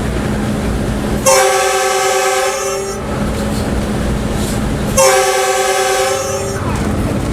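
Locomotive horn sounded twice from the cab, two blasts of about a second and a half each with a few seconds between them, over the steady rumble of the running train.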